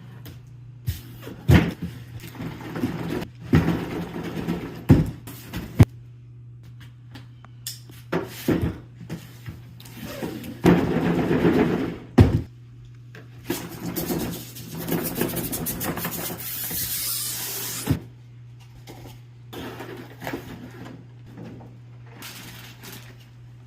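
Packaging of a large vinyl figure being handled and opened: scattered knocks and clicks with stretches of rustling and scraping, over a steady low hum.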